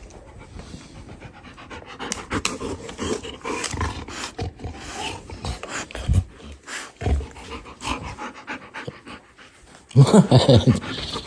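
A dog panting rapidly. About ten seconds in comes a short, loud burst of vocal sound.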